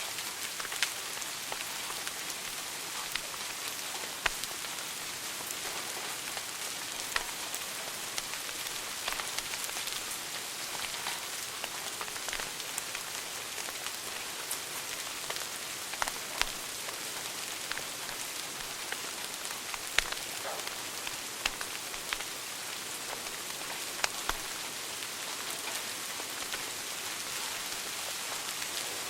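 Wood fire burning in a fireplace: a steady hiss with scattered sharp crackles and occasional louder pops.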